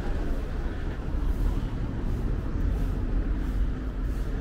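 Street traffic: a low, steady engine rumble from a vehicle nearby, with faint regular taps over it.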